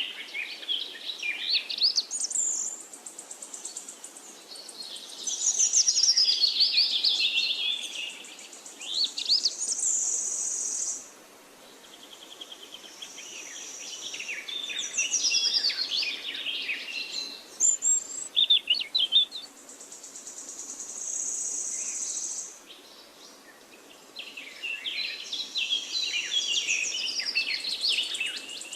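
Several songbirds singing and chirping at once, with quick high twittering phrases throughout. A high, even buzzing trill comes in three times, for two to three seconds each.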